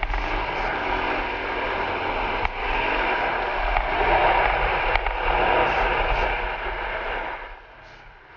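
Dirt bike engine running while riding, heard from a helmet camera with heavy wind rush over the microphone; the sound drops away sharply near the end.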